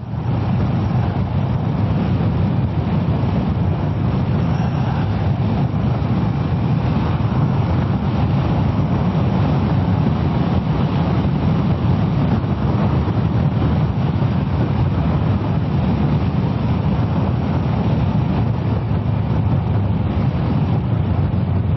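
Steady wind rush and road noise of a motorcycle ride, with the Kawasaki ER-6f's parallel-twin engine running underneath at an even pace.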